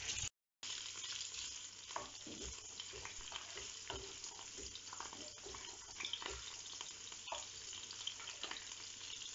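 Whole red prawns sizzling in hot olive oil in a frying pan, a steady hiss with light ticks and scrapes as they are turned with a wooden fork. The sound drops out completely for a moment near the start.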